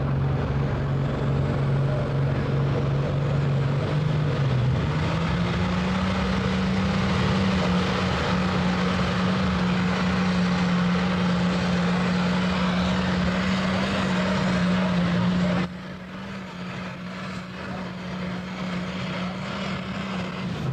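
Pulling tractor engine running hard with a steady drone; its pitch climbs about four seconds in and holds high, then the sound drops suddenly in level about three-quarters of the way through and carries on quieter.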